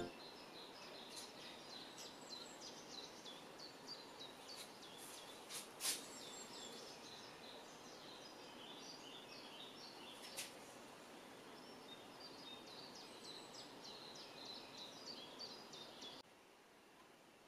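Faint birdsong from small birds, many short chirps, over a low outdoor hiss, with a couple of sharp clicks about six and ten seconds in. The birds fall silent about a second before the end.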